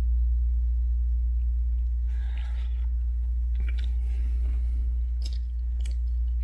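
A steady low hum runs underneath. Over it come soft mouth sounds of someone chewing a piece of steamed fish cake and noodles, with a few sharp clicks near the middle and end.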